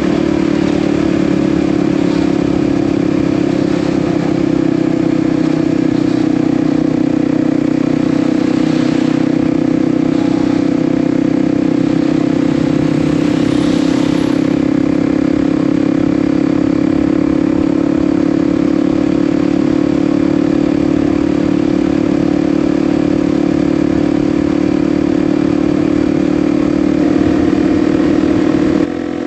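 Kawasaki KLX 300's single-cylinder four-stroke engine running steadily at highway cruising speed, heard from on the bike. Near the end the level drops suddenly and the engine note changes.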